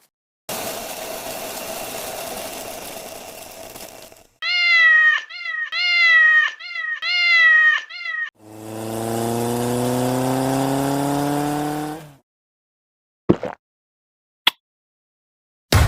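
A cat meowing three times, each call falling in pitch and the loudest sound here. Before it comes a few seconds of hiss that fades, and after it a droning whine that rises steadily for about four seconds, followed by three short sharp clicks.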